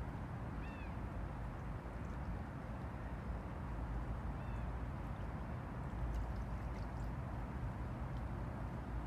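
River water lapping steadily at the Han River's edge under a low rumble. Two short arched animal calls come through, one just under a second in and another about four and a half seconds in.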